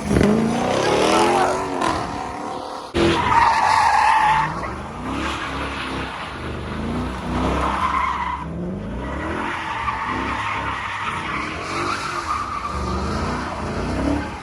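A car doing donuts: its engine revs up and down again and again while the rear tyres squeal, the loudest screech about three to four seconds in.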